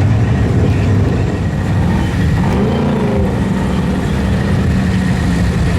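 Mud truck engine running loud, revving up and back down about two and a half seconds in, then holding a steady drone.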